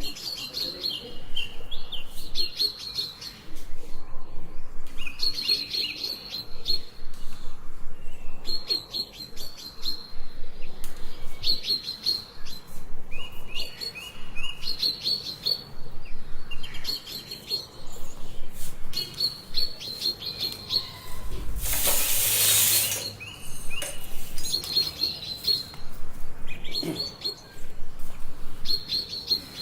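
A small bird chirping in short repeated phrases of quick high notes, about one phrase every two seconds, with a brief burst of noise about two-thirds of the way through.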